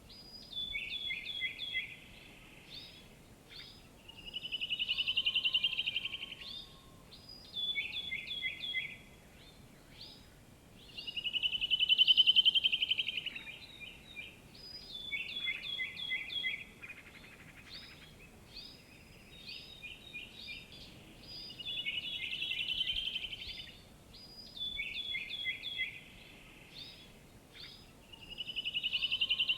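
A bird singing the same song over and over: a buzzy trill that swells and fades over about a second and a half, alternating with quick runs of short, sharp notes, every few seconds, over faint background hiss.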